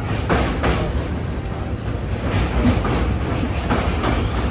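Passenger train running at speed over a river bridge, heard from the coach doorway: a steady rumble and rush of the wheels on the rails, with a few sharper clacks.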